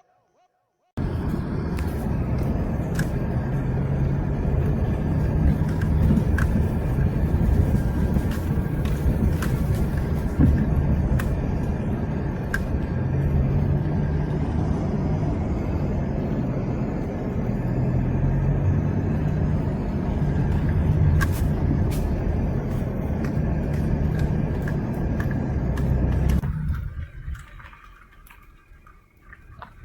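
A motor vehicle running, with a wavering low engine note, steady road noise and scattered rattles and clicks. It starts abruptly about a second in and fades away near the end.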